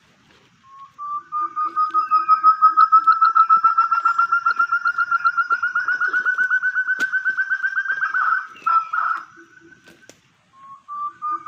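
Forest quail call: a long, fast run of evenly spaced notes, about eight a second, rising slightly in pitch over some seven seconds, with a few soft low hoots under its start. After a short break a second run begins near the end.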